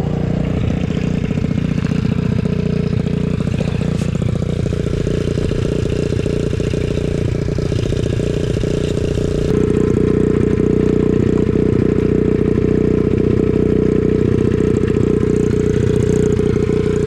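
Small engine idling steadily close by. About halfway through it abruptly gets louder, then holds steady again.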